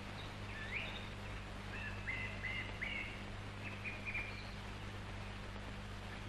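Small birds chirping: short upward-sweeping chirps, several in quick succession about two to three seconds in and a few more near four seconds, over a steady low hum and hiss.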